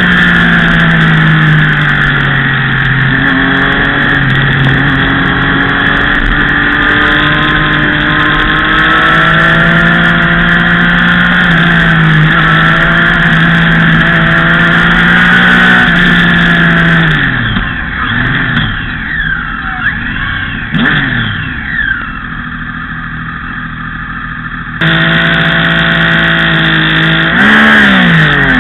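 Motorcycle engine at speed, heard from onboard and running at high revs, its pitch stepping with gear changes. About 17 seconds in it goes quieter and its note swoops down and up several times. It comes back loud about 25 seconds in, with a quick dip and rise in pitch near the end.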